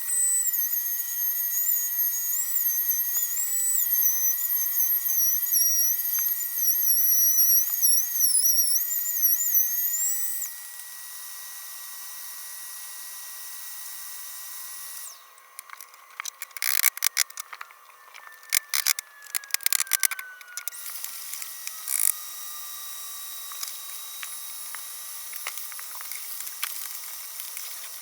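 Makita circular saw mounted in a homemade table saw, its motor running with a high whine that wavers in pitch for about ten seconds. In the second half comes a burst of sharp clattering knocks, while one tone falls slowly.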